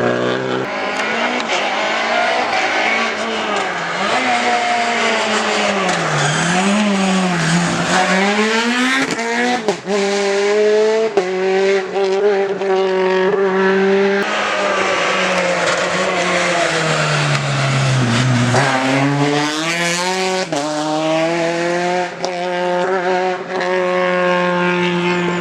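Rally car engine revving hard, its pitch climbing through the gears and falling twice as it slows for corners, then climbing again, with tyre squeal. A few sharp cracks come about 9 to 11 seconds in.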